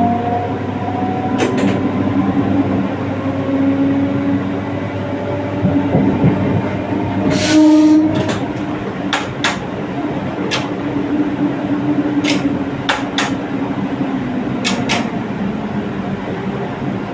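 Passenger train running on the track: a steady rumble with a motor whine that slides down in pitch in the first few seconds, and wheels clicking over rail joints, often in pairs. A short loud hiss comes a little before halfway.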